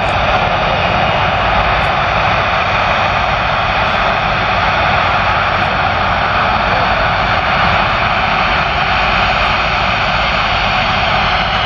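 Jet airliner's engines, a loud, steady rush of noise that holds level without rising or fading.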